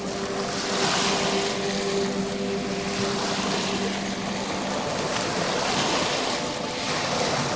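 Ocean surf washing in and out in soft swells, under a few sustained low music tones that fade away.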